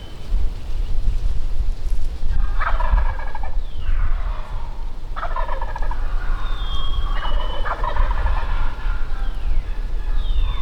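Wild turkeys gobbling: three rattling gobbles a couple of seconds apart, over a steady low rumble.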